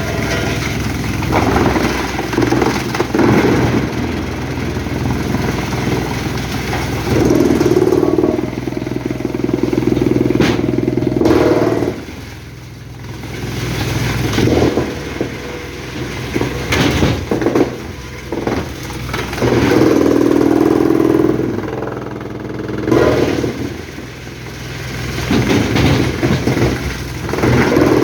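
Heavy diesel machinery running steadily, with strong surges of a few seconds each, about seven seconds in, around twenty seconds in, and near the end, dipping between them.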